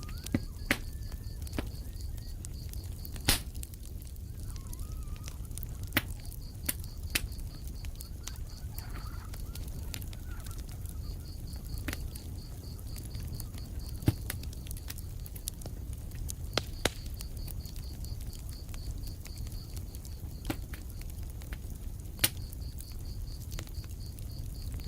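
Wood fire crackling in a fireplace: a steady low rumble with sharp pops every second or few. A high, rapidly pulsing trill comes and goes in stretches of a few seconds.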